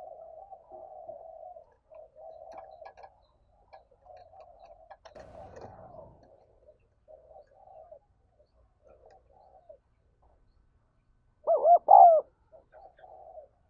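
Spotted dove cooing: a run of soft, low coos, then a louder pair of coos about twelve seconds in. A brief noise of some other kind comes about five seconds in.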